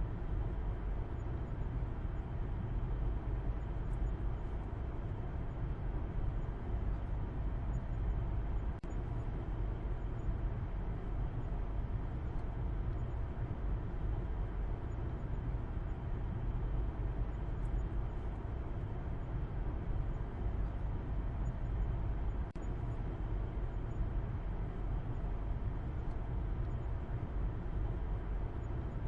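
Car driving at a steady speed: a constant deep rumble of road and engine noise with a hiss above it, unchanging throughout.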